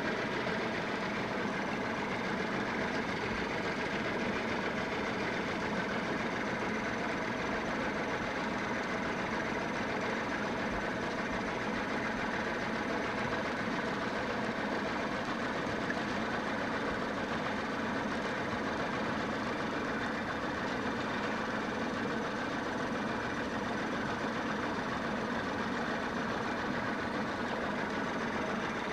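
Boat's engine running steadily at low revs, a constant drone with no change in speed.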